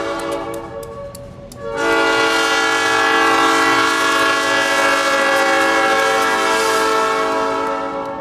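Air horn of an ex-Duluth, Missabe & Iron Range SD-M diesel locomotive sounding a chord of several notes: the end of one blast fades about a second in, then a long blast of about six seconds starts shortly before two seconds in.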